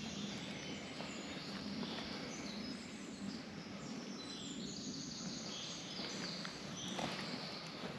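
Small birds singing and chirping repeatedly over a steady rushing background noise, with a few faint clicks or steps.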